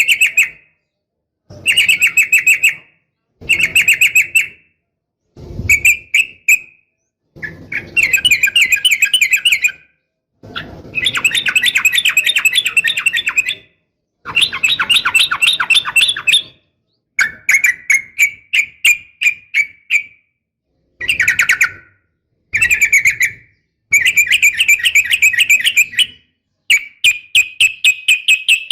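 Sooty-headed bulbul (trucukan) calling: about a dozen phrases of fast chattering notes, each one to three seconds long, with short pauses between. It is offered as a female calling for a male, used as a lure to make male bulbuls sing.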